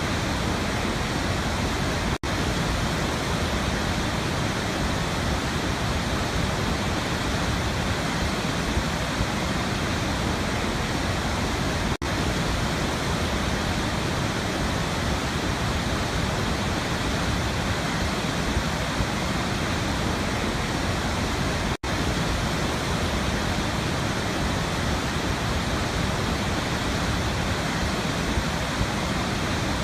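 Waterfall rushing with a steady, even roar. Three momentary dropouts come about ten seconds apart.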